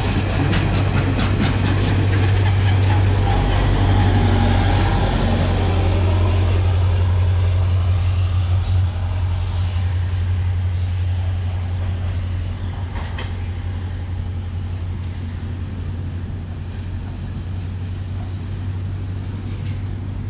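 Diesel train passing on the line: a steady, loud engine drone with wheels clicking over the rail joints, both growing quieter in the second half as it moves away.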